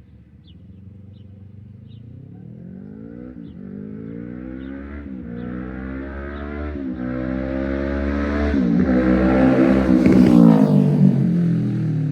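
A Kawasaki Ninja 500's parallel-twin engine through a Yoshimura AT2 full exhaust, accelerating toward and past the listener. The engine pitch climbs, drops back at each of four upshifts and climbs again, growing louder throughout. It is loudest about ten seconds in as the bike passes, then its pitch falls away.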